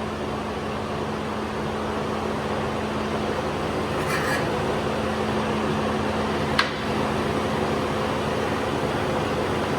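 A running car's steady hum, even and unchanging, with a single short click about six and a half seconds in.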